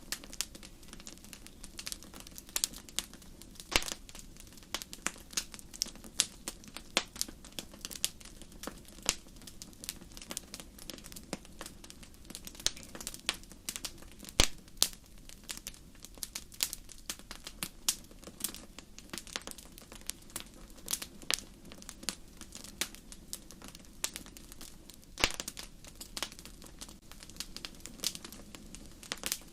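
Wood fire crackling in a fireplace: irregular sharp pops and snaps, a few louder ones such as one about halfway through, over a low steady burning rumble.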